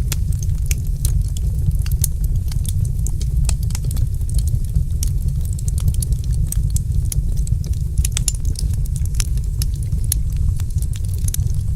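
Fireplace fire crackling, with many sharp irregular pops and snaps over a steady low rumble.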